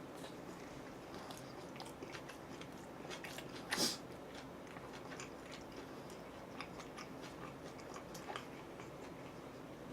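Quiet chewing and biting of food close to the microphone, with faint scattered mouth clicks and one louder short crunch about four seconds in.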